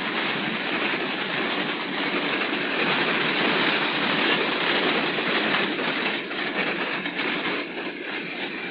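A freight train rolling past, with a steady rumble and clatter of wheels on the rails that fades as the train moves away over the last couple of seconds.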